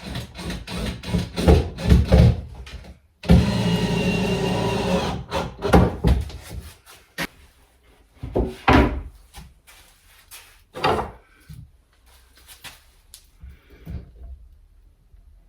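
Woodworking sounds: clatter and knocks of plywood being handled, then a power tool motor running steadily for about two seconds, followed by a few more knocks.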